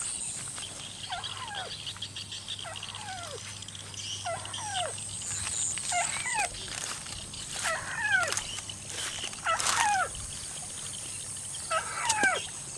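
A bird calling again and again, each call a short note sliding down in pitch, about eight of them roughly a second apart, over a steady high-pitched hum.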